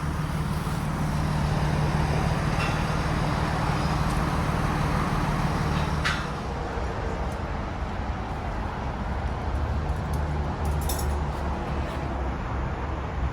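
A crane's engine running steadily with a low hum, easing off slightly about six seconds in.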